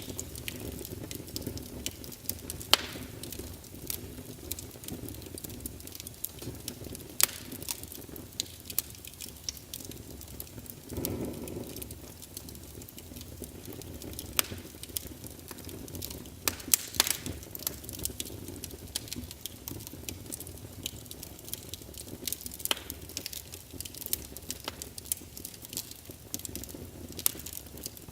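Wood logs burning in a fireplace, crackling with irregular sharp pops over a low steady rumble, and a short burst of hissing about eleven seconds in.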